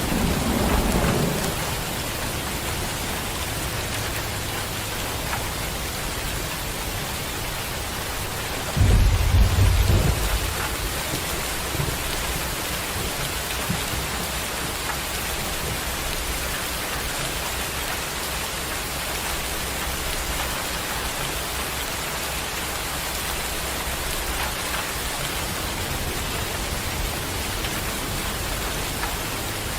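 Steady heavy rain with thunder rumbling. A rumble dies away in the first second or so, and a louder roll of thunder comes about nine seconds in and lasts a second or two.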